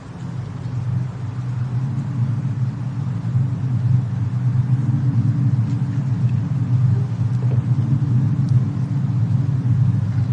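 Low, steady rumble of a fireplace-and-snowstorm ambience, fading in over the first second or two, with a few faint crackle-like ticks.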